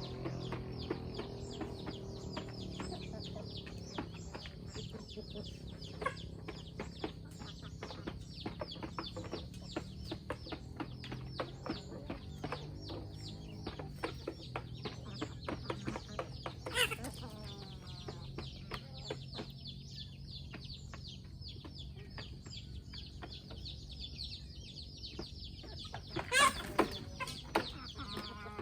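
A flock of free-range chickens clucking while they feed, over a steady patter of many short taps. Two louder squawks stand out, one a little past halfway and one near the end.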